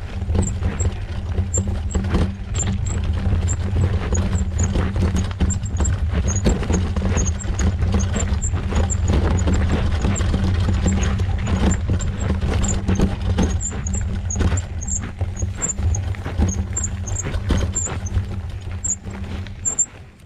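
Mountain bike descending fast on a dirt trail: wind rushes over the microphone as a steady low rumble, and the bike rattles and knocks over bumps. Short high chirps recur throughout.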